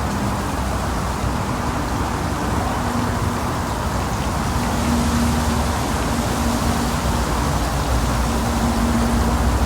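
Steady rushing noise over a low rumble, with a faint hum that comes and goes.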